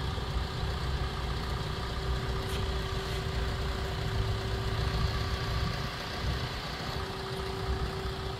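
Car engine idling steadily: a low rumble with a constant hum above it.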